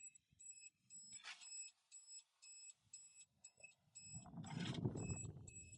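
High-pitched electronic beeper sounding about twice a second, steady and evenly spaced. About four seconds in, rustling handling noise rises under it.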